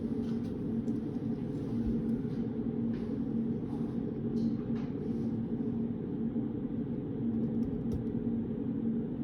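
Steady low rumble of study-room ambience with a faint hum, the kind of room noise kept as white noise. A few faint light clicks, like a pen or paper being handled, come in the first half.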